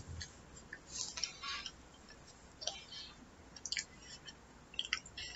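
A person chewing a mouthful of pizza: quiet, irregular small mouth clicks.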